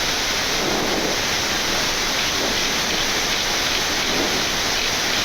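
Steady rushing noise on the flight deck of a Boeing 787-9 climbing after takeoff, just after flap retraction.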